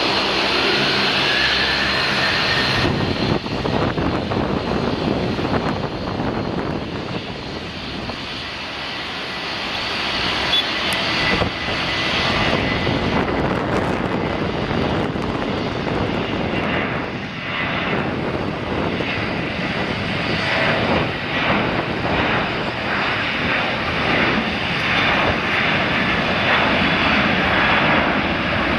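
Jet engines of a Boeing 737-800, its CFM56-7B turbofans, running loud and steady at takeoff power, with a high whine rising in pitch in the first few seconds.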